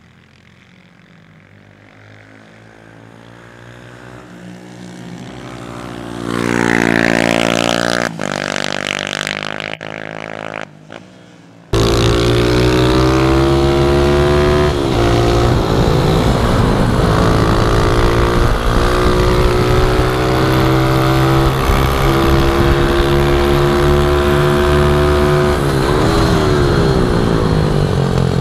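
Pit bike engines at high revs: a small motorcycle engine grows louder as it comes near and passes, then after a sudden cut about twelve seconds in, an engine runs loud and close with a steady high-revving note, dipping in pitch twice as it backs off or shifts gear.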